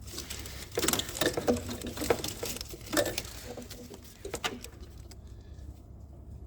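Wiring loom being handled and moved aside in an engine bay: irregular light clicks and rustling of cables and plastic connectors, dying down near the end.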